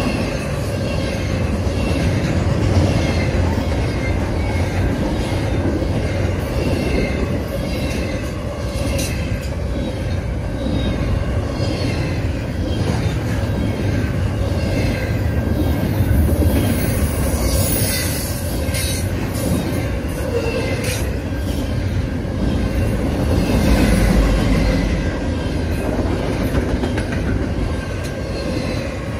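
Double-stack intermodal freight train rolling past, its loaded well cars rumbling steadily and clattering over the rails, with a brief high screech about halfway through.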